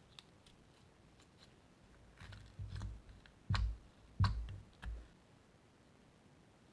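Slime being worked by hand: a few faint clicks, then a cluster of short squishy pops and clicks between about two and five seconds in.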